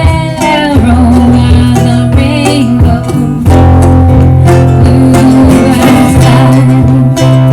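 Live acoustic music: acoustic guitar and singing over low, steady bass notes.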